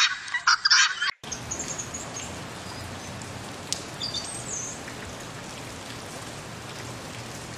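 Helmeted guineafowl calling in loud, harsh, rapidly repeated bursts, cut off suddenly about a second in. A steady hiss of background noise follows, with a few faint high chirps.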